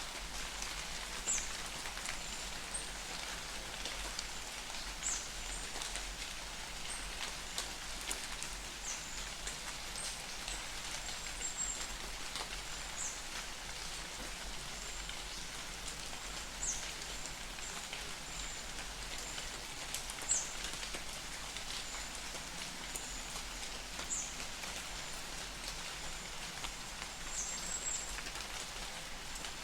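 Light summer rain falling in a forest, a steady patter of drops, with a short high chirp repeating about every four seconds.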